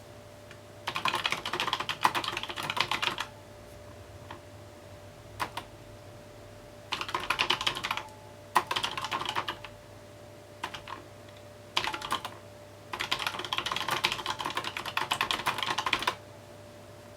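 Typing on a mechanical keyboard: fast runs of keystrokes in several bursts, the longest lasting about three seconds, with short pauses and a few lone key presses between them.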